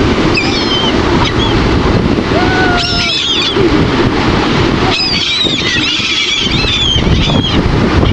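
A flock of seagulls calling, many short overlapping cries, bunched about three seconds in and again from about five to seven and a half seconds. Under them runs a steady rumble of wind on the microphone and surf.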